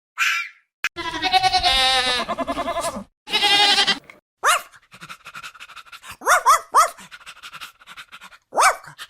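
Animal calls: a long wavering call about a second in, a shorter one after it, then several short calls that drop in pitch.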